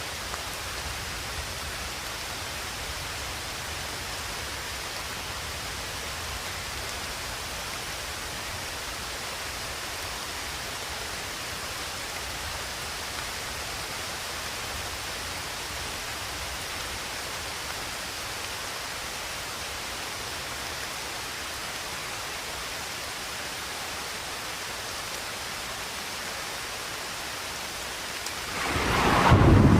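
Steady rain hiss, even and unbroken. Near the end a much louder low rumble of thunder swells up.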